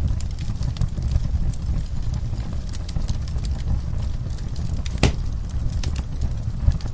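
Wood fire burning in a fireplace: a steady low rumble of flames with frequent sharp crackles and one louder pop about five seconds in.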